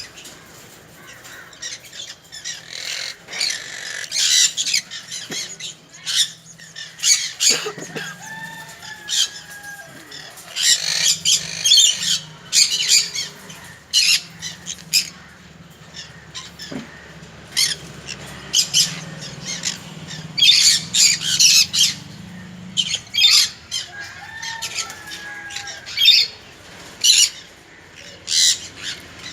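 Egg-bound conure hen squawking in many short, shrill calls while she is held and her vent is massaged.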